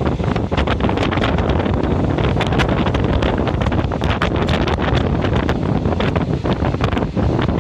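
Train running, heard from inside the carriage: a steady rumble with air rushing over the microphone, and frequent rattles and clacks from the wheels and carriage.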